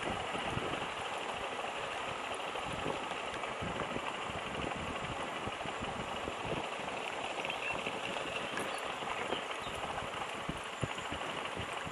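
Lifan KPT200 motorcycle engine running steadily, a rough, irregular mechanical sound.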